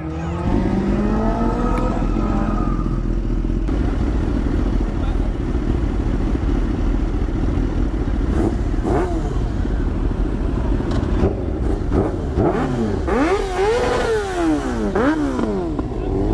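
Car engines revving hard at a burnout session, their pitch rising and falling again and again in the second half, over a steady engine drone.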